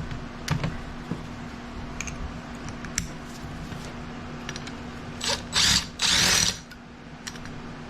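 A cordless drill/driver runs in three short bursts, its motor pitch rising each time it spins up, near the end. Before that come a few sharp clicks of tools and metal parts being handled.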